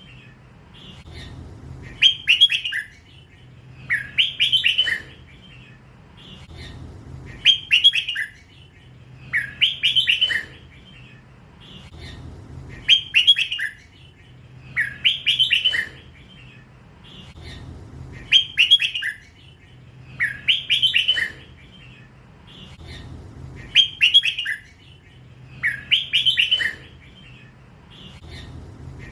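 Hybrid red-whiskered bulbul, a young bird still in its first plumage, singing its 'lak wai' song: the same short warbled phrase repeated about every two and a half to three seconds. A faint steady low hum runs underneath.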